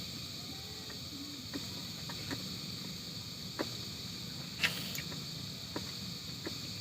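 Steady chirring of crickets or other insects, with a few faint, irregular clicks.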